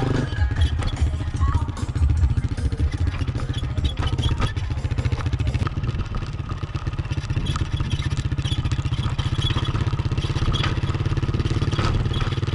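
Honda CRF450RL's single-cylinder engine running steadily under way on the ride, with a steady low pulsing and some rattle.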